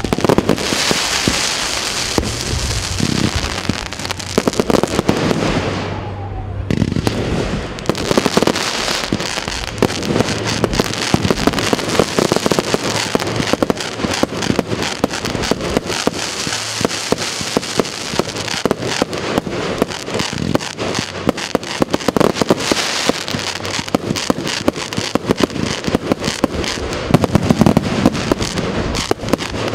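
Fireworks going off: a dense run of rapid pops and sharp bangs from bursting shells, with a short lull about six seconds in.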